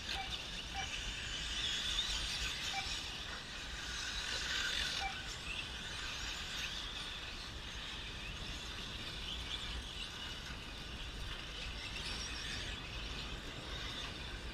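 Electric 1/10 short-course RC trucks racing, their brushless motors whining high with tyre and chassis noise. The sound swells about two seconds in and again around four to five seconds in as trucks pass close.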